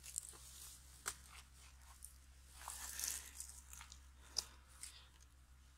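Faint snapping and tearing of poplar mushroom clusters being pulled off a poplar stump by hand: a few sharp cracks, with a short rustle in the middle.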